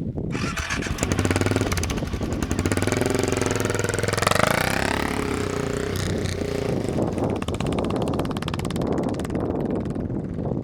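Motorcycle engine running under load as the bike is ridden through sand, revving up with a rising pitch a few seconds in.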